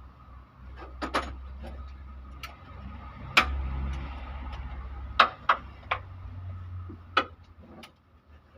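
Irregular sharp metallic clinks and knocks of hand tools and engine parts being handled during an engine teardown, about eight in all, over a low rumble.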